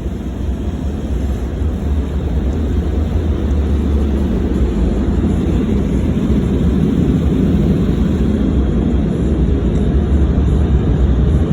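Automatic car wash's heater blowers running, a steady loud rush of air with a low rumble that grows louder over the first few seconds.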